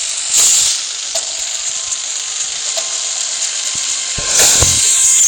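Beyblade spinning tops in battle: a steady, high hissing whirr, with a low thump a little past four seconds in.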